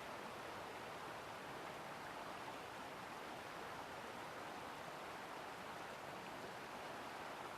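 Steady rushing of a flowing river, an even hiss with no breaks or distinct events.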